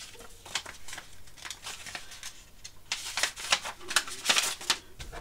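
Rustling and crinkling of a model kit's paper instruction sheet being handled and turned, with small clicks and crackles that get busier in the second half.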